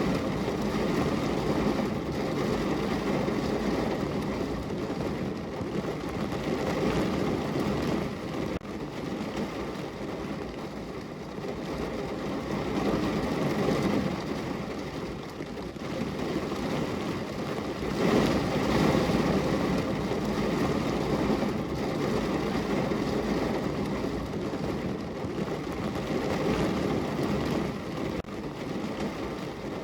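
Heavy rain drumming steadily on a car's roof and body, heard from inside the car, swelling and easing in waves every several seconds.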